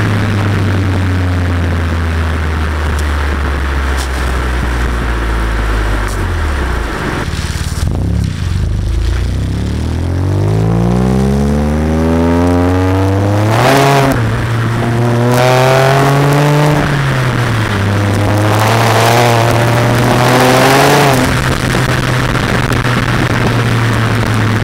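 BMW E90 335i's turbocharged straight-six exhaust, fitted with an Autobahn Exotics exhaust, high-flow secondary cats and catless downpipes, heard from the rear of the car. The exhaust note holds steady, drops about seven seconds in, then climbs steadily for several seconds under acceleration. It rises and falls twice more before settling back to a steady drone.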